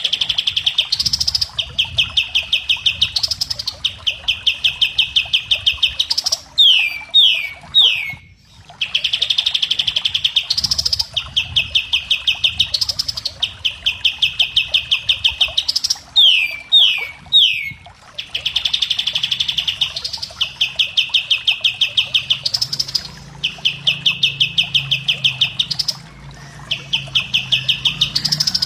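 Kapas tembak songbird singing: rapid, loud trills in bursts about two seconds long, each ending in a short upward note, broken twice by a run of three loud falling whistles. This is a song recording of the kind played to caged songbirds to teach them the phrases.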